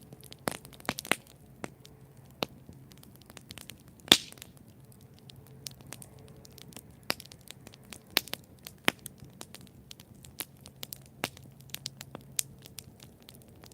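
Wood campfire burning and crackling: irregular sharp pops and snaps over a low steady hiss, with one loud pop about four seconds in.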